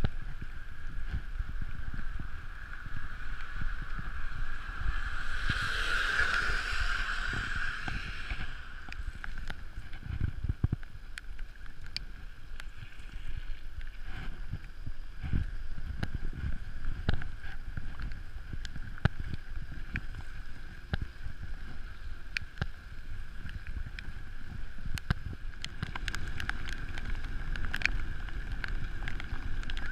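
Wind rushing over the microphone and the rumble of a mountain bike rolling fast downhill on pavement, with a steady hum and scattered small rattles and clicks. A louder whoosh swells and fades about five to eight seconds in.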